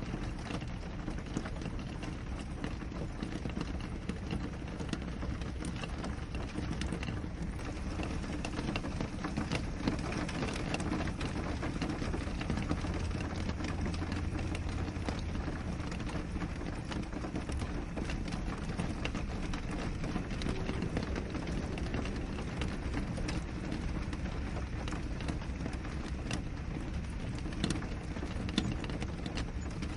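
Steady rain falling on a window pane: a dense, even patter of countless small drop taps over a continuous rushing hiss with a deep undertone.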